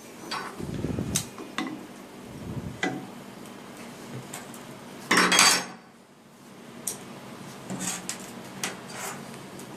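Scattered clinks and light knocks of metal equipment being handled, with a louder half-second rush of noise about five seconds in.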